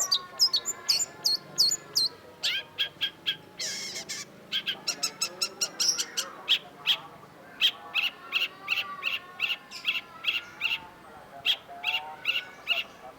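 Long-tailed shrike singing a fast run of short, sharp, repeated notes, about three or four a second, some of them high and hooked.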